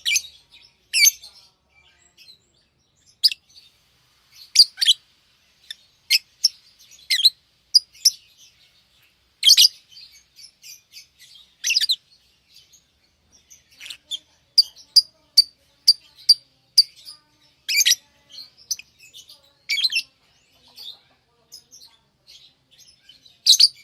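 Pet lovebirds chirping: short, sharp, high-pitched chirps at irregular intervals, with a quick run of several chirps in the middle and short pauses between.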